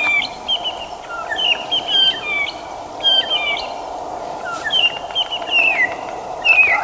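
Several birds calling with many short chirps and quick falling notes, one after another, over a steady background hum.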